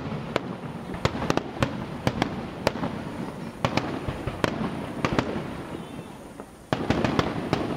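Aerial fireworks bursting in a rapid, irregular series of sharp bangs and crackles, easing off in the second half before a fresh cluster of bangs near the end.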